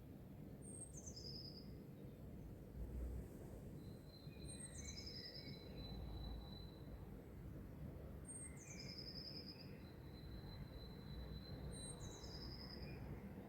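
A songbird repeating a short, high phrase that steps down in pitch, four times about every four seconds. Between the phrases there are long, thin, steady high whistles. A faint low rumble runs underneath.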